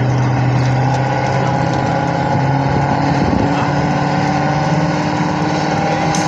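Engine of a competitor's pulling vehicle, likely a truck, running loud and steady under load as it drags the sled. Its note changes a little over three seconds in.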